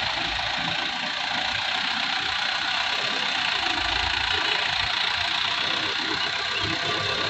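Diesel engine of a Mitsubishi Canter HDX dump truck running steadily, with a steady hiss over a low, uneven rumble.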